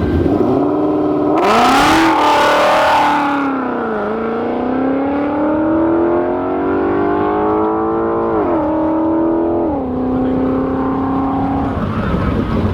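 A drag car's engine at full throttle, pulling away on a pass: its pitch climbs steadily, drops sharply at a gear shift about eight and a half seconds in and again about a second later, then holds steady until it stops near the end. About a second and a half in, a loud hissing rush lasts roughly two seconds over the engine.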